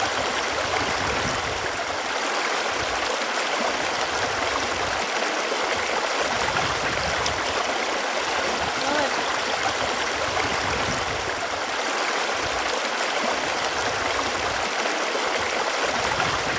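Running water, a steady, even rushing flow that does not let up.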